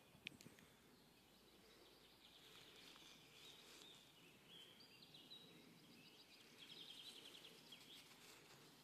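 Near silence with faint songbirds singing: high repeated trills off and on, and one sharp click a fraction of a second in.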